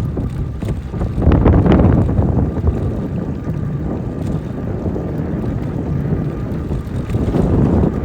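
Wind buffeting the microphone during an e-bike ride: a loud, steady, gusting rumble.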